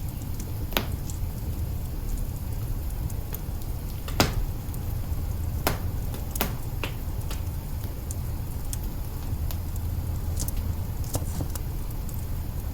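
Wood fire burning in an open kitchen hearth: a steady low rumble with irregular crackles and pops, the loudest pop about four seconds in.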